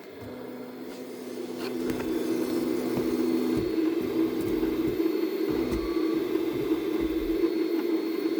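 Flashforge AD5X 3D printer heating: a steady noise that grows louder over the first two seconds and then holds, with a few faint pops. This is the popping during heating that goes with its E0113 error.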